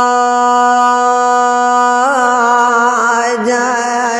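A male reciter's unaccompanied lament chant: one long note held at a steady pitch, breaking about halfway into a wavering, ornamented melismatic run.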